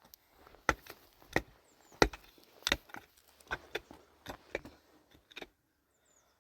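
A series of sharp, separate knocks, about nine in all, coming irregularly every half second to a second and stopping about five and a half seconds in.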